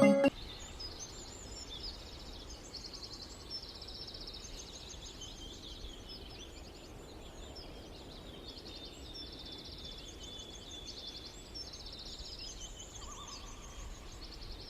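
A small songbird singing outdoors in a long run of short, high, rapidly repeated trilled phrases with brief pauses, over steady low background noise.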